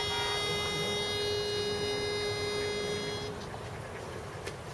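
Pitch pipe sounding one steady note to give an a cappella group its starting pitch, held and then stopping about three seconds in.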